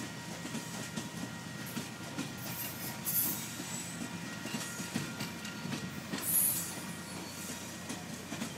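Passenger cars of a long train rolling past at close range: a steady rumble with wheel clicks over the rail joints, and two brief high-pitched squeals, about three and six seconds in.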